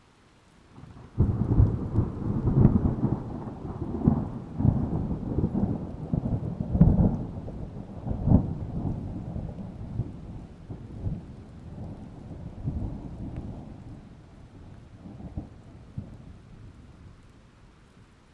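A long peal of thunder: a sudden crack about a second in, then a deep rumble with repeated loud peaks for several seconds. It rolls away gradually, fading over the following ten seconds.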